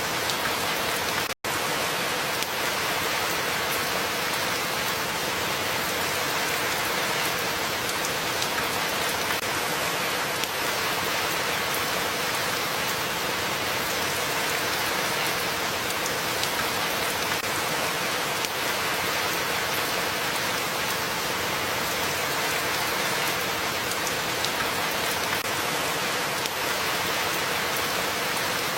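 Steady rain falling on a surface, an even hiss of drops with no letup. The sound cuts out for an instant about a second and a half in, then carries on unchanged.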